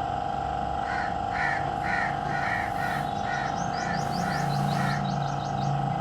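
Small birds chirping in a quick series of short calls, with a fast trill of high rising notes a little past the middle, over a steady mechanical hum.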